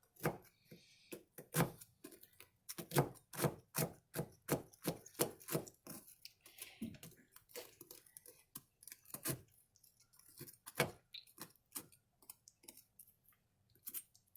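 A fork jabbing into milk-soaked Oreo cookies, clicking against the dish again and again to break them apart: quick, uneven clicks, thickest in the first half and thinning out later.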